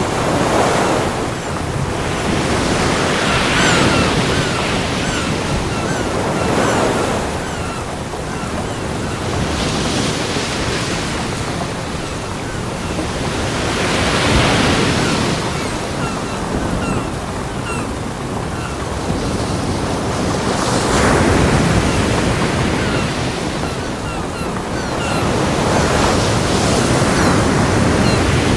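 Ocean surf breaking on a beach: a steady wash of water that swells and ebbs as each wave comes in, every few seconds.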